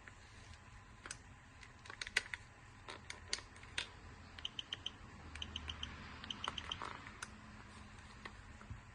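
Small plastic clicks and snaps from a Mercedes-Benz smart key fob being handled and its casing pressed back together. Around the middle come three quick runs of short, high beeps.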